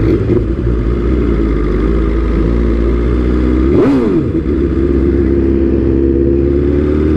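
BMW S1000RR's inline-four engine running at a steady speed under way, with a brief swoop in pitch about four seconds in.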